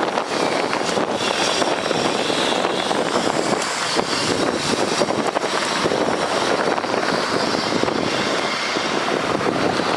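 2017 Freightliner M2 water truck's Cummins ISB diesel engine running, with a steady rushing noise.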